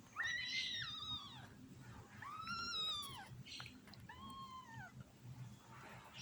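Cat mewing: three short, high-pitched calls a second or so apart, each rising and then falling in pitch.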